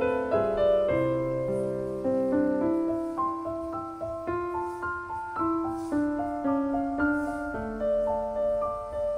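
Background piano music, a melody of single notes and chords each struck and left to fade.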